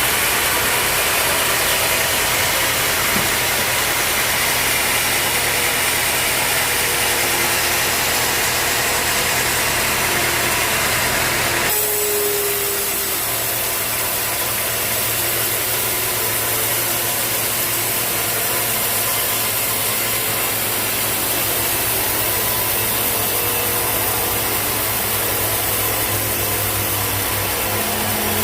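Sawmill machinery running steadily: an engine hum under constant mechanical noise, with the sound changing abruptly about twelve seconds in.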